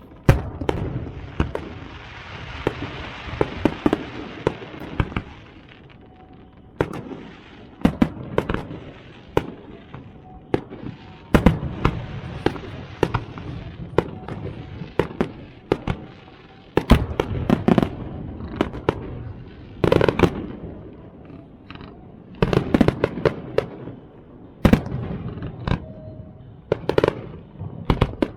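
Fireworks display: clusters of sharp bangs and crackling bursts every few seconds, with a dense hissing crackle during the first few seconds.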